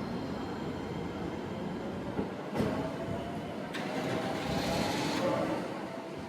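Electric train running on the rails through a station, a steady rumble of wheels on track. About two and a half seconds in there is a sharp clack, then a thin whine sounds for a few seconds before easing off.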